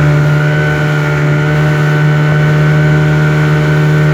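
Speedboat engine running at a steady speed, a loud drone that holds one pitch throughout.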